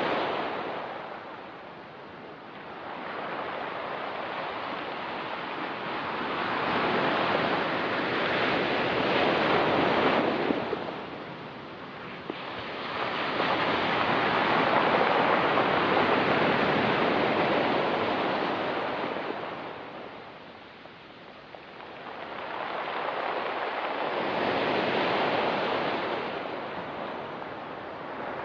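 Ocean waves breaking on a rocky beach, the surf swelling and ebbing in long surges every several seconds, with three big swells.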